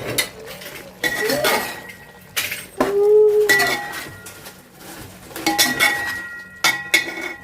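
Dishes and cutlery clinking: several sharp metallic clinks that ring on briefly after each strike. About three seconds in there is also a short rising-and-falling call.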